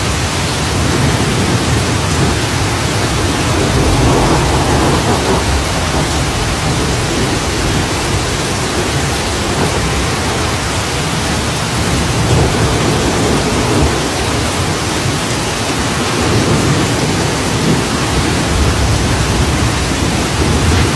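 Steady, loud rain falling, with low rumbles that swell and fade a few times.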